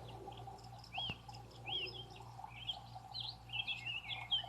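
Small birds chirping and twittering in quick, overlapping calls, busier near the end, over a low steady hum.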